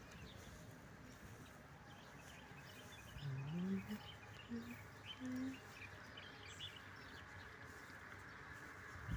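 Small birds chirping and twittering faintly, with a few short low calls, one of them rising, about three to five seconds in.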